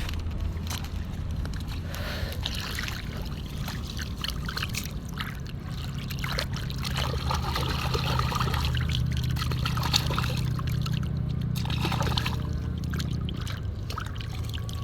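Water trickling and splashing over a steady low hum.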